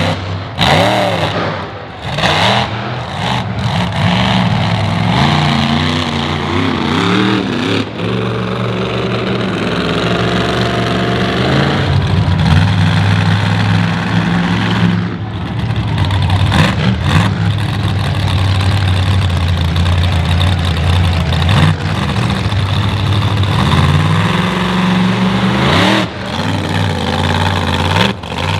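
Monster truck engine revving hard, its pitch climbing and dropping again and again with long stretches held at high revs.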